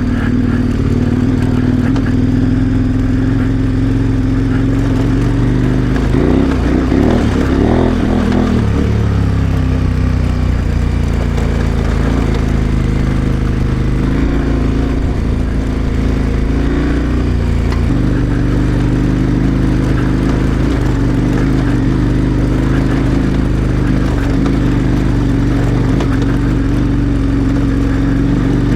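KTM 1090 Adventure R's V-twin engine running under way on a dirt road, a steady engine note that shifts in pitch about a quarter of the way in and changes again a little past halfway.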